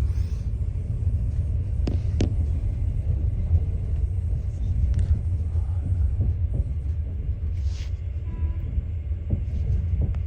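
Steady low rumble, with two sharp clicks about two seconds in.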